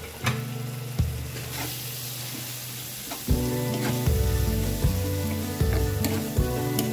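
Sliced onions and ground spices sizzling in hot oil in a pan, stirred with a spatula in the second half. Background music plays throughout and gets louder about three seconds in.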